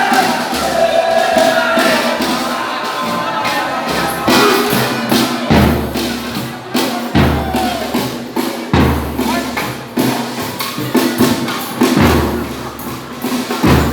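Folia de Reis folk music: voices singing a held line in the first few seconds, over tambourine jingles. A deep drum beats about once every second and a half through the rest.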